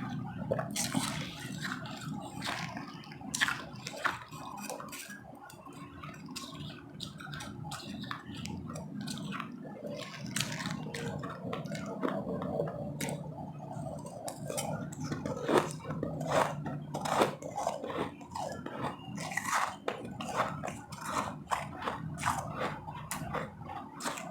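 Ice being bitten and chewed close to the microphone: an irregular, rapid run of sharp crunches.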